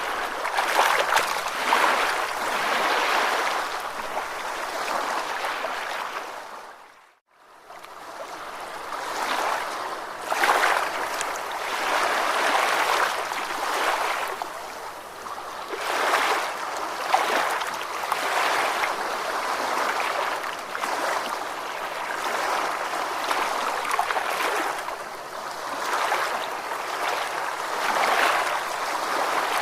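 Ocean waves washing in, the surf noise swelling and easing every couple of seconds. The sound fades to near silence for a moment about seven seconds in, then builds back.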